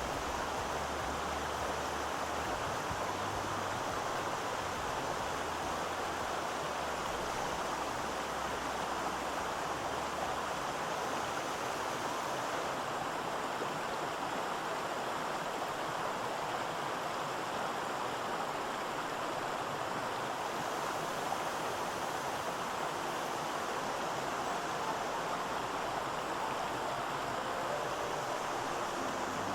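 Rushing water of the Oirase mountain stream, flowing steadily with no breaks.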